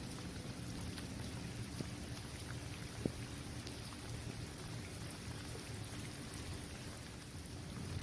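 Steady rain falling on an outdoor basketball court, an even hiss over a low rumble, with a few separate drop ticks, the sharpest about three seconds in.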